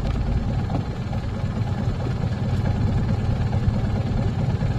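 Small coastal fishing boat's engine running steadily, a low, even drone.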